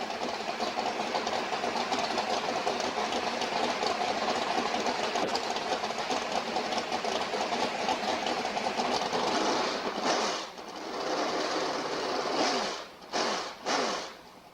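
Freshly rebuilt engine running with a fast, even clatter just after its timing has been set. Near the end it is revved in three short blips that fall away in pitch, then it stops.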